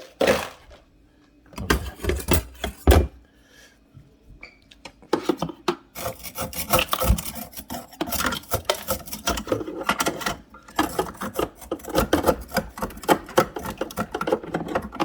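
Hand scraping and rubbing at built-up ice inside a fridge's ice maker compartment, to clear an ice block. A few separate knocks come first, then a quick, continuous run of scraping strokes from about five seconds in.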